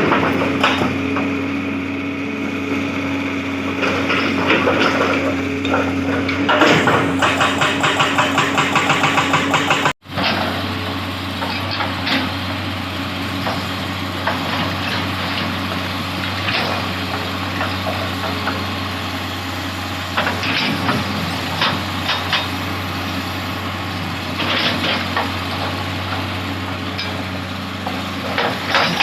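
Hitachi 200-class excavator's diesel engine running steadily under work. About seven seconds in, its hydraulic breaker hammers the rock in quick even blows, about four or five a second, for some three seconds. After a brief dropout the engine runs on with scattered knocks and cracks of stone.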